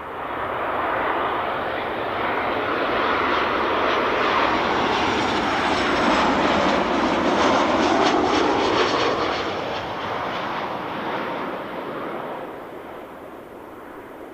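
Airliner engines passing close by at the runway end. The broad rushing noise swells quickly, peaks about two-thirds of the way through with a sweeping rise and fall in pitch, then fades as the plane moves away.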